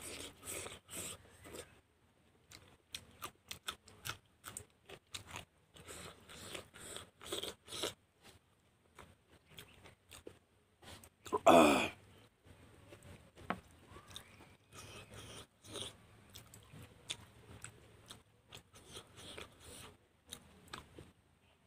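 Close-miked mouth sounds of a man eating rice and vegetables by hand: chewing, with many short clicks and wet bursts all through. About halfway through comes one louder, short vocal noise from the eater.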